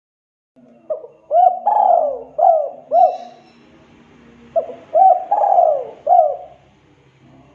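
Spotted dove (tekukur) cooing: two phrases of four or five arching notes each, with a pause of about a second and a half between them.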